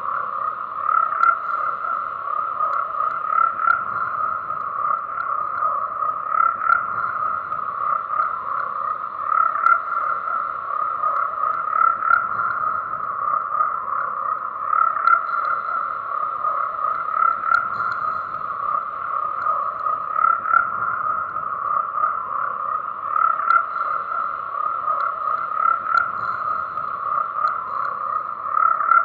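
A chorus of frogs calling, many croaks overlapping into a steady, unbroken din.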